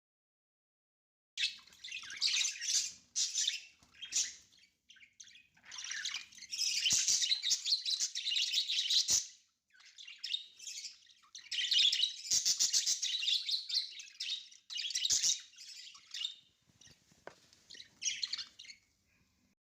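Pet budgerigars chirping and warbling in repeated stretches with short pauses, starting about a second and a half in.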